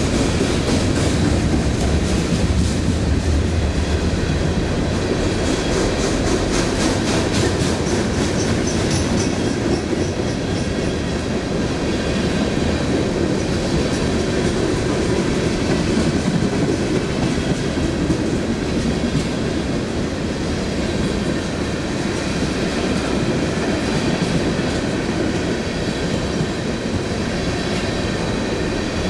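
Train cars rolling steadily past, with a continuous rumble and wheels clicking over the rail joints, the clicks most marked in the first ten seconds or so.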